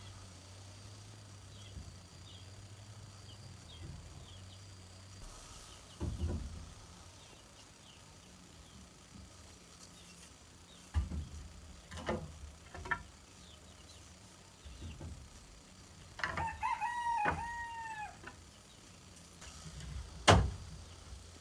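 A rooster crows once, a single drawn-out call that rises and falls, a little past the middle. Scattered sharp knocks sound around it, the loudest shortly before the end.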